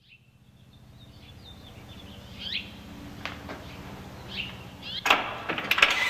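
Birds chirping in short falling calls over a steady low hum, fading in from silence, with a few sharp clicks or knocks in the last second or so: an ambient sound bed ahead of the song's first notes.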